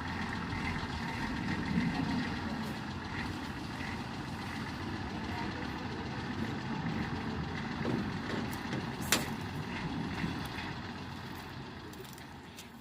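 Road roller's diesel engine running steadily, with a single sharp click about nine seconds in; the sound fades toward the end.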